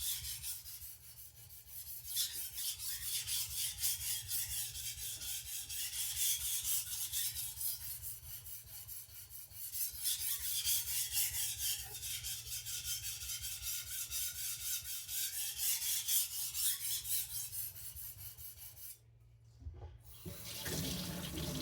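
Steel chef's knife blade stroked back and forth on a whetstone in quick, rhythmic scraping strokes, with brief pauses between sets and a stop near the end. The sharpening is working the second side to bring the edge together and raise a burr along the whole edge.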